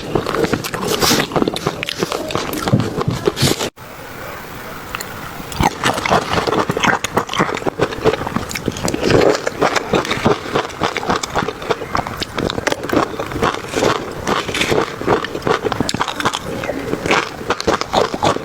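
Close-miked eating sounds: rapid, irregular crunchy chewing and bites. The sound cuts out abruptly almost four seconds in, then resumes.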